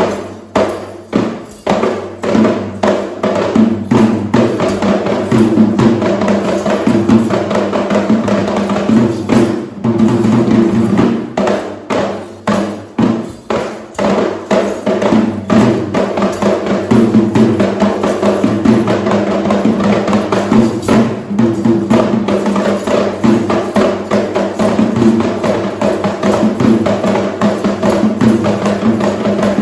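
Sri Lankan traditional drums played in a fast, dense rhythm of rapid strokes, with a stretch of more separate, accented beats around ten to fourteen seconds in.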